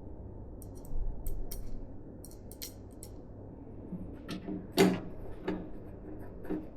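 A string of small sharp clicks and taps from PC parts being handled and fitted during assembly, with a few louder knocks in the second half, the loudest just before five seconds in.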